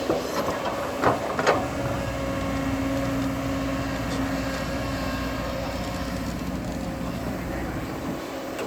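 Bulldozer diesel engine running steadily, with three sharp metallic clanks in the first second and a half.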